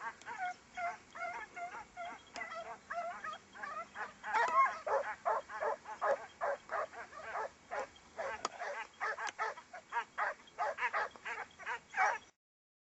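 Hunting hounds baying as they run a hare's scent trail. Their calls come several a second and overlap, and they stop abruptly near the end.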